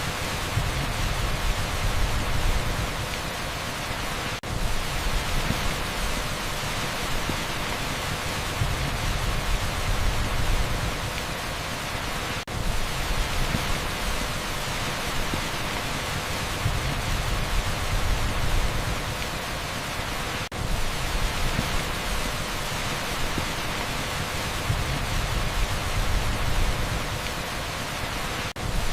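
Torrential rain on an asphalt street: a steady, dense hiss with a low rumble underneath, broken by brief dips about every eight seconds.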